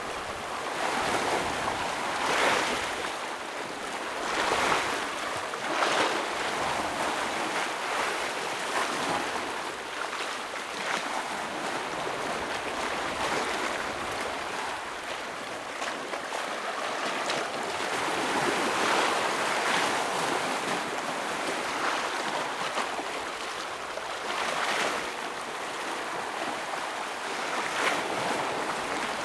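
Ocean waves breaking and washing against shoreline rocks: a continuous hiss of surf that swells into louder crashes every few seconds.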